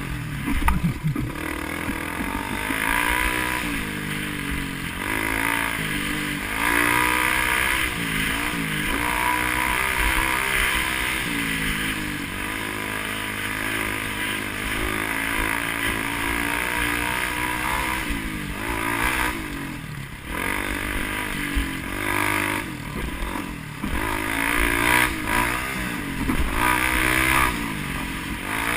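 Vehicle engine heard from on board, its revs rising and falling again and again as it accelerates and backs off, over steady road and wind noise.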